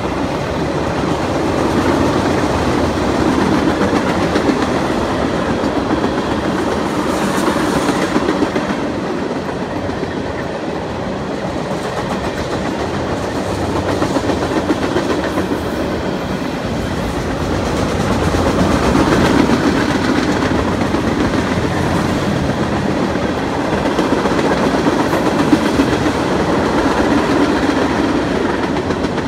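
Freight cars of a passing train rolling by: steel wheels clicking over rail joints over a steady rumble that swells and eases a little as the cars pass.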